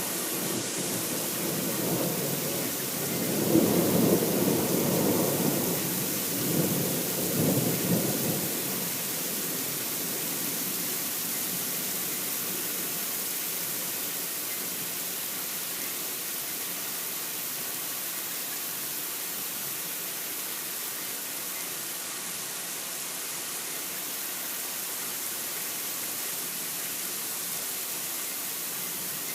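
Thunderstorm: a rolling thunder rumble that swells twice, about four and seven seconds in, and dies away by about nine seconds, over steady rain hiss that carries on alone after it.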